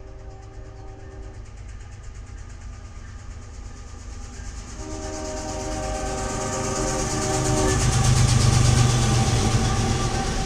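Canadian Pacific diesel locomotives' air horn sounding a chord twice, briefly at the start and again for a few seconds about five seconds in, as the oil train approaches. The engines' rumble and the wheel noise grow louder, loudest about eight seconds in.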